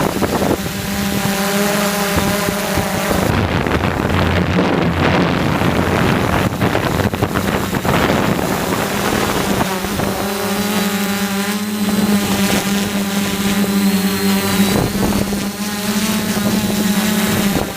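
DJI F450 quadcopter's brushless motors and propellers droning at a steady pitch, with wind rushing over the onboard microphone.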